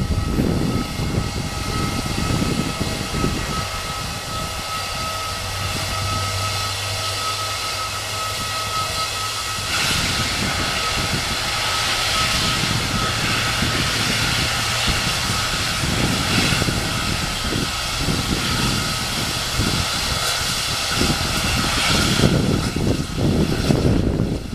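Airbus A319 jet engines running with a steady high whine over a hiss, the hiss growing louder about ten seconds in, with an uneven low rumble underneath.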